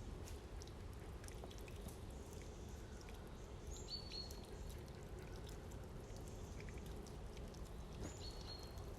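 Faint outdoor ambience with a steady low background noise, and a small bird giving a short two-note call twice, about four seconds apart: a brief high note followed by a lower held note.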